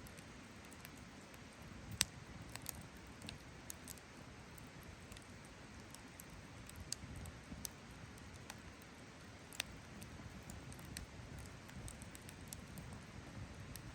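Wood campfire crackling: irregular sharp pops and snaps over a low steady background, the loudest pop about two seconds in and another strong one near ten seconds.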